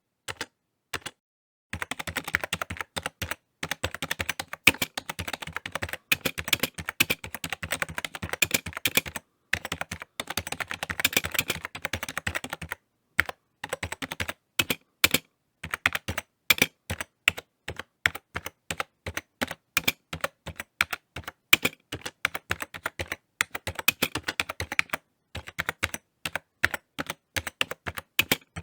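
Typing on a computer keyboard: quick runs of key clicks in uneven bursts, broken by short pauses.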